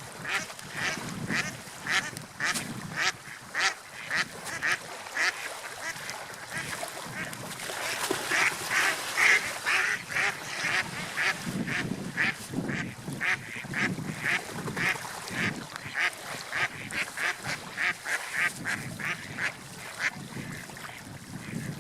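Seagulls calling over and over, a run of short, sharp calls coming two or three a second, over a low swell of sea waves.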